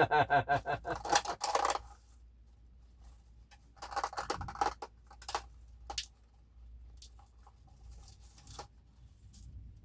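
Dry whole wheat pasta being handled and broken in half: a cluster of crackling rustles about four seconds in, then a few sharp snaps and clicks spread out. A short pitched voice-like sound opens it.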